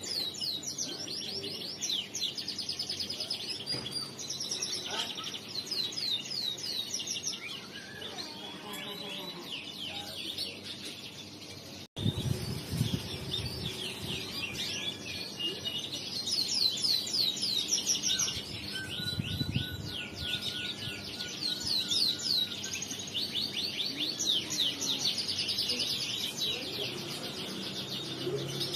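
Male crested canary singing a long, fast song of rapidly repeated high chirping notes and trills. The song breaks off abruptly about twelve seconds in, then carries on.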